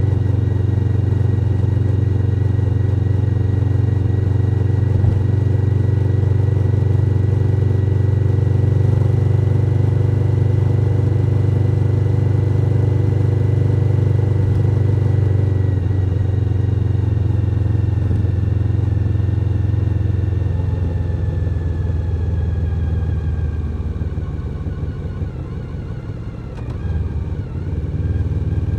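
Suzuki SV1000N's 996 cc V-twin engine running on the road, holding a steady note for the first half as the bike cruises. About halfway through the note starts falling and getting quieter as the bike slows, then wavers with a short rise in loudness near the end.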